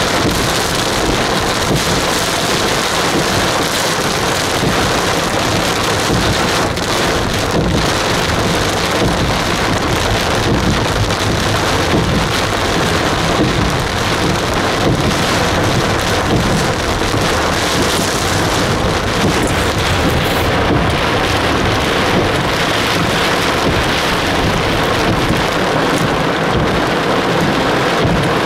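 Heavy downpour: loud, steady hiss of rain.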